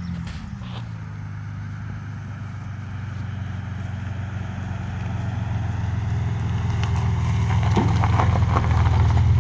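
Ford 4.9-litre (300) inline-six with a muffler delete, its exhaust open behind the catalytic converters, running at low, steady revs. The deep exhaust note dips in level at the start, then grows steadily louder over the rest.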